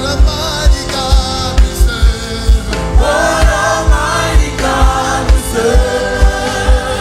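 Gospel worship song: a choir and voices singing over a band, with a steady kick-drum beat about twice a second.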